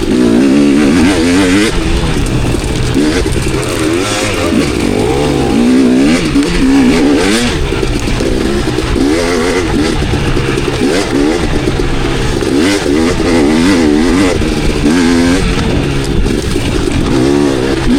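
KTM enduro dirt bike engine revving up and down again and again as the throttle is opened and closed, with a few short knocks and clatters.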